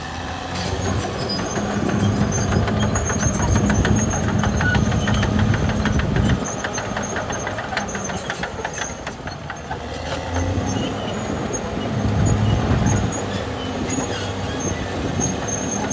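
Caterpillar D6R XL bulldozer's diesel engine working hard under load, with the steady clank and rattle of its steel tracks. The engine eases off suddenly about six seconds in and pulls hard again around twelve seconds.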